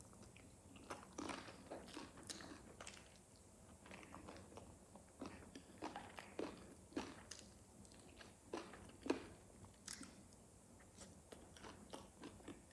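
Close-up eating sounds of a person chewing and biting baked chicken: a string of irregular short mouth clicks, with one louder click about nine seconds in.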